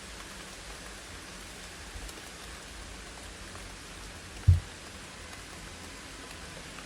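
Steady rain falling, an even hiss. One short, low thump about four and a half seconds in.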